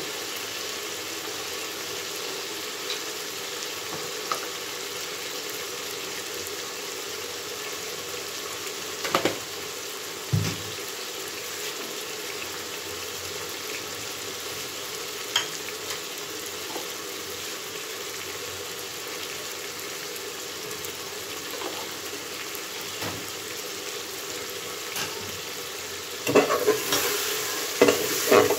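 Oil sizzling steadily as chicken, tomato and spices fry in an aluminium pressure-cooker pot, with a few faint knocks. Near the end a metal ladle starts stirring, scraping and clattering against the pot.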